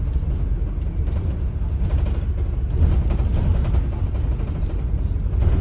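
Steady low rumble of a moving vehicle heard from inside, with continuous rattling and creaking from the vehicle's fittings.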